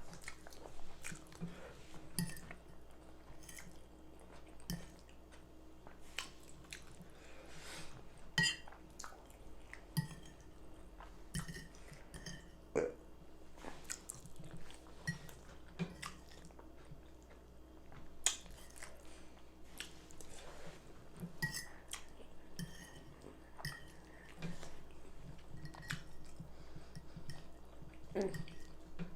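Close-miked chewing of baked chicken, rice and gravy, with many short, irregular smacks and clicks of the mouth.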